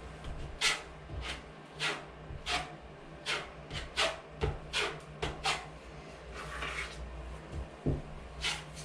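Hand strokes rasping across drywall joint compound, a dozen or so short scrapes at an uneven pace of about one every half second.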